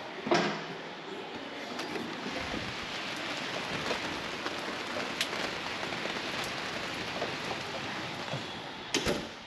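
Heavy rain falling steadily, with a sharp knock about a third of a second in and another near the end.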